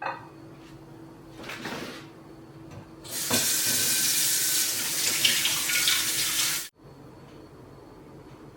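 Water running from a tap into a sink for about three and a half seconds, starting about three seconds in and stopping abruptly, with a shorter, softer rush of water a little earlier.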